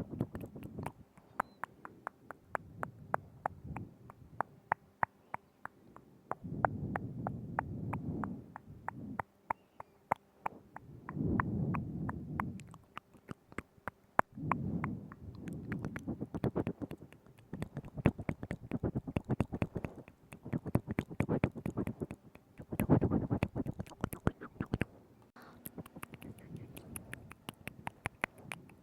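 ASMR mouth sounds made right up against a binaural microphone: a rapid run of wet tongue and lip clicks and smacks, with a low muffled swell every few seconds.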